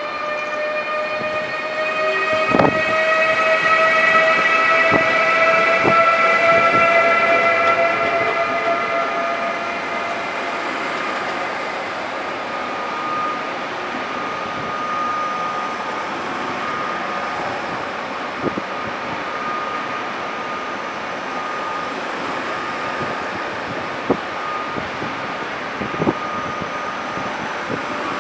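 A train moving through a station, with a long high whine of several tones that rise slightly over the first few seconds and then hold steady, over a running rumble. It is loudest a few seconds in, with occasional sharp clicks along the way.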